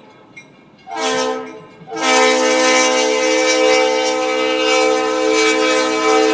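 Diesel locomotive air horn sounding a chord: a short blast about a second in, then a long held blast.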